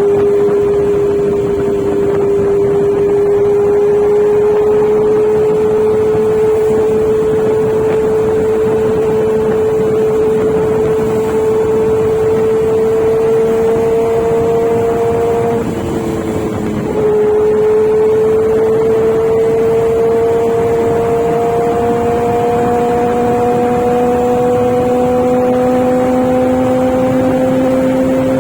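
Kawasaki Z900's inline-four engine and exhaust under way, its note climbing slowly and steadily, breaking off briefly about halfway through and picking up lower before climbing again, over a steady rush of wind noise.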